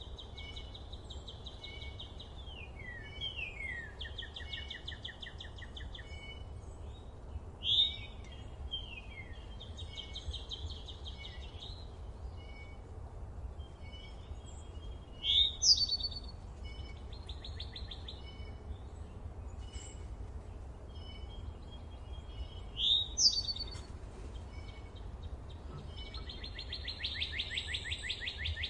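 Several songbirds singing in a forest, with falling whistled phrases, trills and short chirps. Three loud, sharp rising notes stand out, one every seven or eight seconds, and a long buzzy trill comes near the end, all over a steady low rumble.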